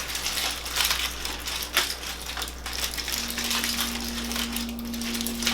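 Light clicking and scraping of utensils against a dish as food is handled. A faint steady hum comes in a little past halfway.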